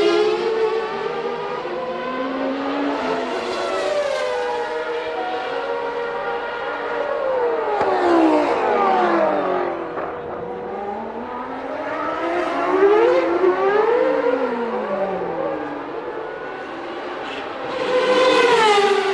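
Formula One cars of the 1989 season, with naturally aspirated 3.5-litre engines, running at high revs and passing one after another. Their engine notes climb through gear changes and fall away as each car goes by, and the sound is loudest as a car passes near the middle and again near the end.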